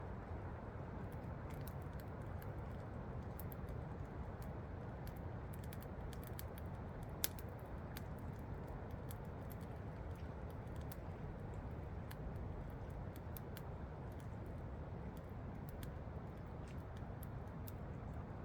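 Campfire crackling with frequent small sharp pops, one louder pop about seven seconds in, over the steady rush of a waterfall.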